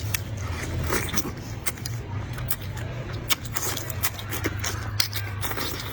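Chopsticks and bowls clicking and scraping at the table during a meal, a quick scatter of sharp clicks over a steady low hum.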